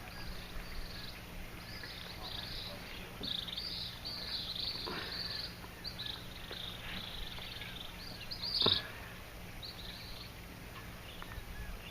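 Birds chirping in short, high, repeated calls over a steady low hum, with one brief louder sound about two thirds of the way in.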